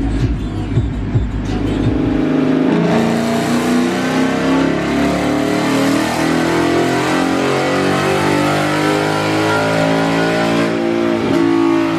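Ford Mustang GT's V8 making a baseline chassis-dyno pull on a cold air intake only: a low rumble at first, then from about two and a half seconds in the engine is run hard under load, loud and sustained.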